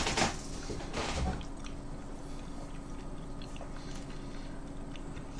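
Faint wet chewing of a mouthful of pizza, with a few small soft clicks, over a steady low hum.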